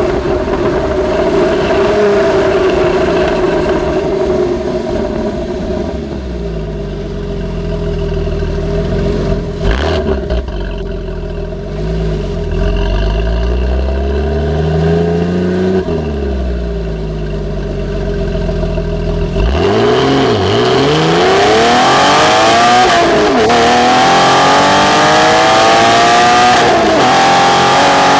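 Porsche 996's flat-six engine through a Fabspeed exhaust. It runs steadily at first, then the revs rise and fall. In the last third it pulls hard, the pitch climbing and dropping back at two gear changes near the end.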